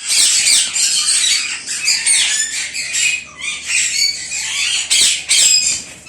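A flock of ring-necked parakeets in a breeding aviary, many screeching and chattering at once in a dense, continuous din of shrill calls.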